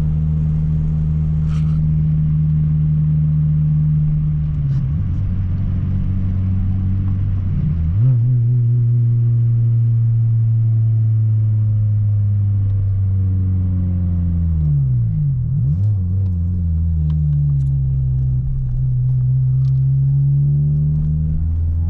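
Acura RSX four-cylinder engine through a loud new custom exhaust, droning while the car is driven. The engine note steps down a couple of times early on, dips and climbs again about two-thirds through, then rises gently as the revs change.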